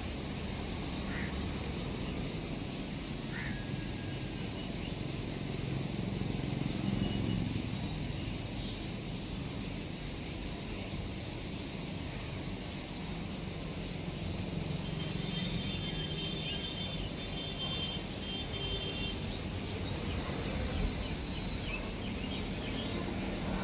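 Steady rumble and hiss of a running train, with a few faint, brief high chirps and thin whistling tones over it.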